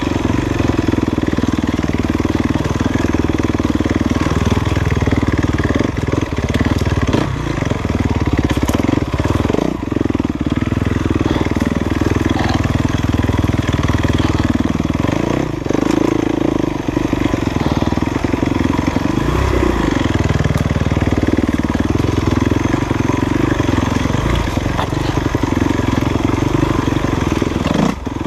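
Enduro dirt bike engine running while being ridden, its revs rising and falling as the throttle is worked, with a few short knocks along the way.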